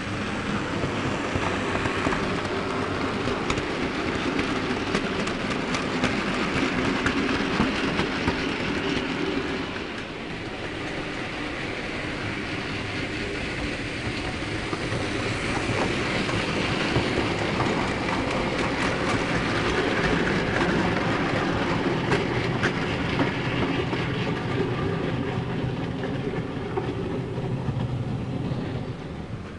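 OO gauge model diesel train running on the track, its wheels clicking over the rail joints. The sound swells twice, dipping about ten seconds in and dropping near the end.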